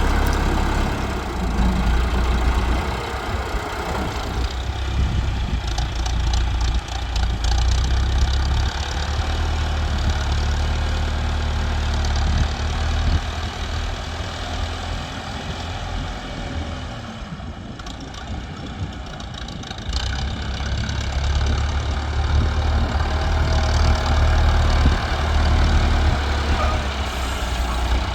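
Tractor diesel engine running under working load, its level easing off and then building again about two-thirds of the way through, with some clattering near the start.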